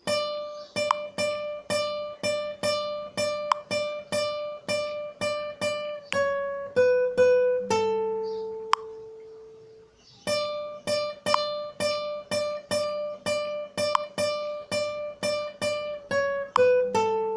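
Guitar picking a melody: one high note plucked over and over, about three times a second, then a few falling notes that settle on a long held lower note. The same phrase starts again about ten seconds in.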